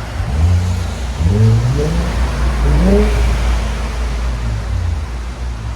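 2019 Infiniti Q50's 3.0-litre twin-turbo V6 revved in three quick blips from idle, each rising in pitch and dropping back, then settling to a steady idle. The exhaust runs through Flowmaster Flow FX mufflers in place of the stock muffler, with the factory resonators kept.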